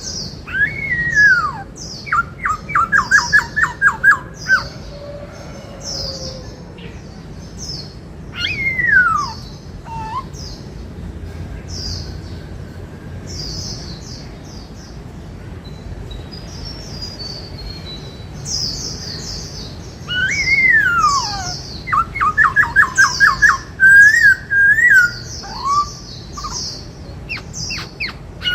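Black-throated laughingthrush singing loud falling whistles and fast rattling trills, in one bout about a second in and another from about twenty seconds in. Steady high chirping continues between the bouts.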